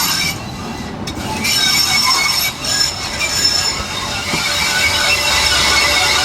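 Train on the Diakopto–Kalavryta rack railway running with a continuous high-pitched metallic squeal from wheel on rail, dipping briefly about a second in.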